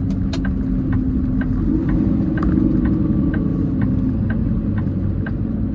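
Peterbilt 389 semi truck's diesel engine running at low speed, heard from inside the cab as a steady low rumble. A light ticking repeats about three times a second over it.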